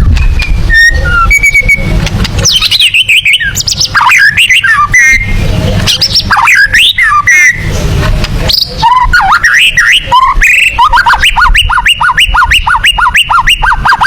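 White-rumped shama (murai batu) singing: a string of loud, varied whistles and sweeping phrases, then a fast run of short repeated notes over the last few seconds.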